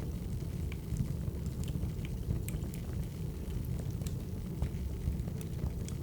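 Wood fire crackling: a steady low rumble with scattered sharp pops and crackles, a couple a second.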